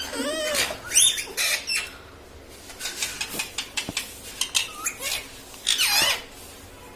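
Pet rose-ringed (Indian ringneck) parakeet calling: a run of loud warbling calls that swoop up and down in pitch during the first two seconds, then softer short chirps and clicks, and another loud call near the end.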